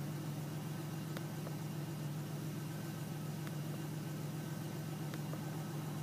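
1989 Chevrolet Beretta's 2.8-litre V6 idling steadily at about 860 rpm, running smoothly and right on its target idle speed.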